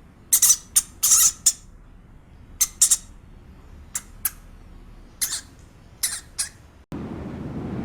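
An animal giving about a dozen short, high squeaks or squawks, singly and in quick pairs. Near the end it cuts to a steady rushing noise.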